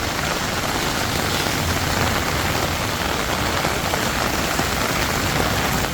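Steady, heavy rain falling on the street.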